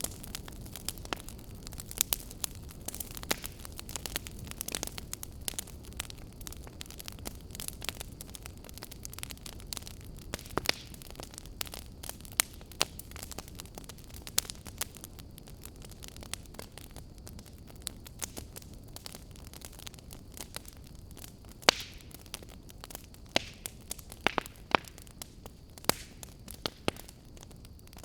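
Wood fire burning in a fireplace, a low rumble of flames with irregular sharp crackles and pops.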